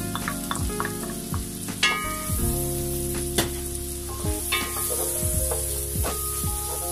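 Diced onion sizzling in hot oil in a pan while a wooden spatula stirs and scrapes the bottom. A few sharp knocks of the spatula against the pan stand out, the loudest about two seconds in.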